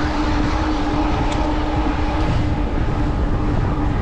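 Wind rushing over the microphone and fat tyres rolling on a wet road at about 20 mph, with a steady hum from the e-bike's 750-watt Bafang rear hub motor.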